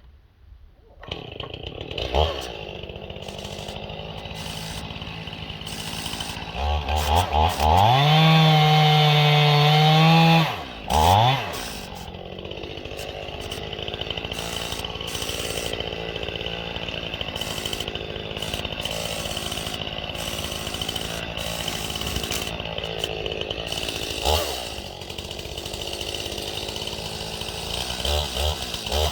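Two-stroke Stihl chainsaw running, coming in about a second in. It runs steadily at low throttle, is opened up to full revs for about three seconds near the middle with a second short rev right after, and gives brief blips later.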